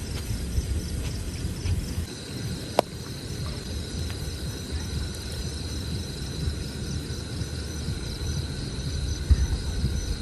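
Insects chirping steadily in high, pulsing trills, joined about two seconds in by a continuous high insect drone, over a low, uneven rumbling noise. A single sharp click sounds near the three-second mark.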